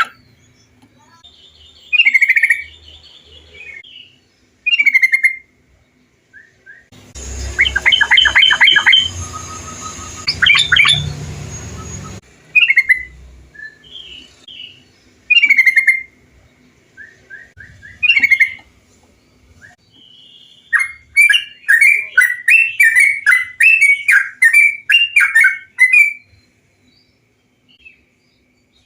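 Trucukan (bulbul) song: short bubbly phrases repeated every few seconds, a denser burst of calls over a background hum in the middle, and a rapid chattering run of notes near the end.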